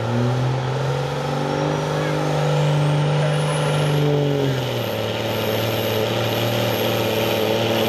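Diesel engine running steadily under high revs with a thin high whine climbing in pitch. About four and a half seconds in, the engine drops to a lower, slower speed and the whine holds.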